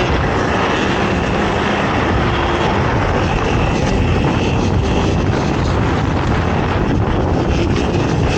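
Quad (ATV) engine running hard at a steady loud level, its pitch shifting slightly, with wind rushing over the microphone.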